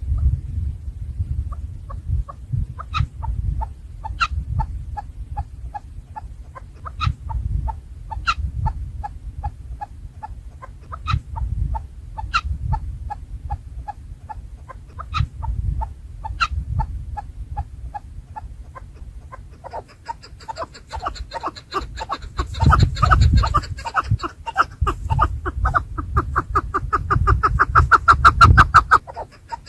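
Chukar partridges clucking: a steady run of short calls, several a second, with a louder call about every second. About twenty seconds in, more birds join in a dense chorus of calls that is loudest near the end. A low rumble runs underneath.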